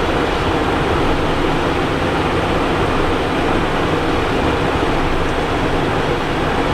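Steady rushing noise inside the cockpit of a Cessna Citation Encore business jet in flight: airflow over the airframe mixed with the hum of its twin turbofan engines, unchanging throughout.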